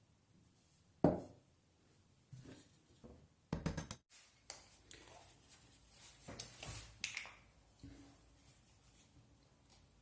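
Handling noises: a sharp knock about a second in, a short clatter at about three and a half seconds, then scraping and rubbing sounds.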